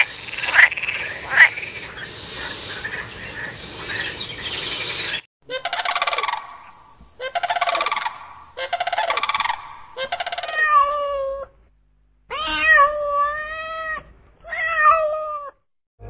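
Frogs calling: a dense croaking chorus for about five seconds, then four pulsed croaks about a second apart, then three drawn-out, wavering calls with a clear pitch.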